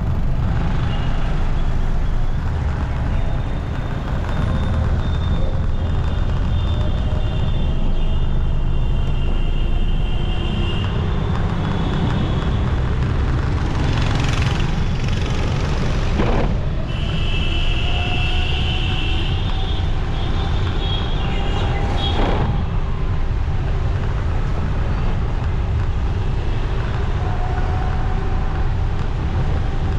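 Motorcycle riding in city traffic: a steady rumble of engine and wind on the microphone, with other vehicles' horns sounding in several stretches and a few brief sharp noises.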